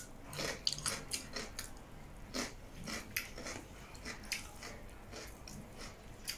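Close-miked eating sounds: wet chewing and irregular mouth clicks and smacks on a mouthful of soft dhido, with fingers working the food on the plate.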